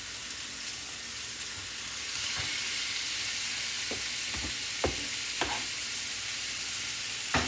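Chicken sizzling in olive oil in a frying pan, a steady high hiss. From about four seconds in come several sharp knocks of a utensil or knife.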